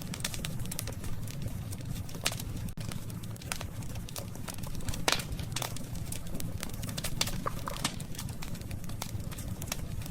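Wood campfire crackling: scattered sharp pops and snaps over a steady low rumble, with the loudest pop about five seconds in.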